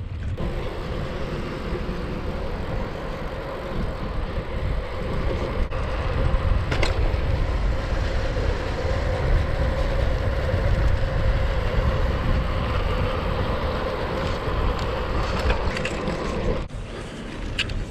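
Gravel bike riding fast down a rough woodland track: steady rolling rumble from the tyres and frame with wind on the microphone, broken by a few brief ticks and knocks from the bike over bumps.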